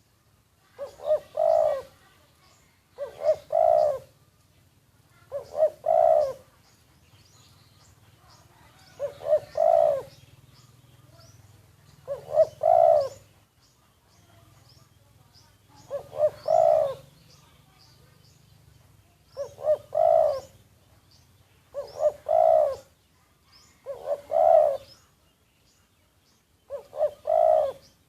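Caged spotted dove (decoy bird) cooing, about ten multi-note coo phrases repeated every two to three seconds. Faint high chirps of other birds sound between them.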